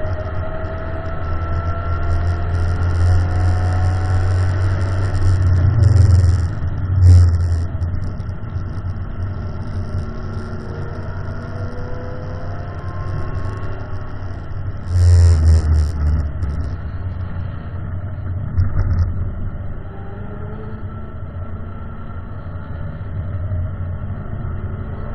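Ford Mustang's engine running hard at speed, heard from inside the car, its pitch climbing as it accelerates, over steady road and wind noise. Heavy low thumps come about six seconds in and again about fifteen seconds in.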